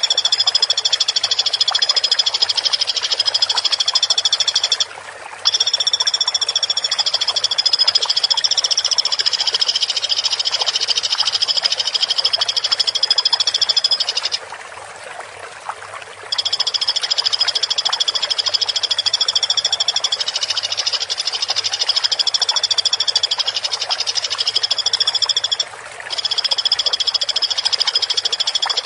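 Woodpecker (pelatuk) call played as bird-training audio: a long, continuous high trill on two pitches. It breaks off briefly about five seconds in, stops for about two seconds near the middle, and pauses again near the end.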